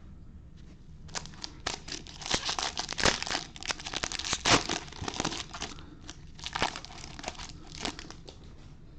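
Plastic wrapper of a Bowman Hobby baseball card pack being torn open and crumpled: a run of sharp crinkling and crackling that starts about a second in and dies down near the end.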